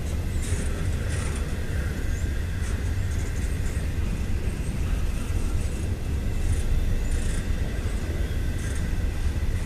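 Double-stack intermodal freight train rolling past slowly: a steady low rumble of wheels and cars on the rails, with faint high-pitched squeals and squeaks from the wheels.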